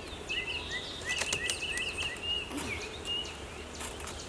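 A songbird singing a quick run of repeated two-part chirps, about four a second, then a few single notes. Under it is the faint steady hum of honeybees at an open hive, with a few light clicks.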